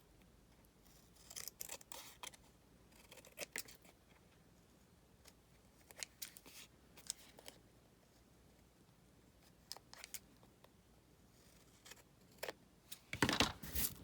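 Scissors snipping through paper in short, scattered cuts, with a louder run of snips near the end.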